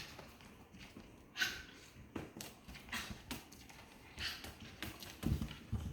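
Puppies moving about on the floor: scattered light taps and scuffles, with two short hissing sounds, one about a second and a half in and one about four seconds in, and a soft low thump near the end.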